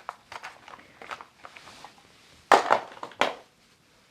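Crackling, rustling handling noise from cosmetics and their packaging being picked up and moved, with a loud cluster of crinkly clicks a little past halfway.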